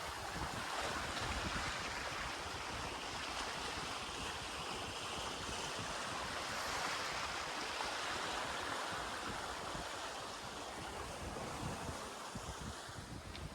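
Sea water rushing past the hulls of a sailing catamaran under sail, steady throughout, with wind buffeting the microphone.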